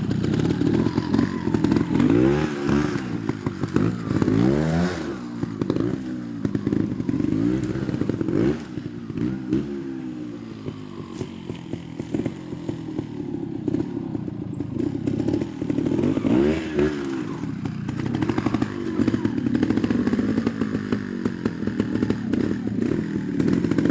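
Trials motorcycle engine running and being blipped. Its pitch rises and falls in a few quick revs about two to five seconds in and again near seventeen seconds, and it runs lower and steadier in between.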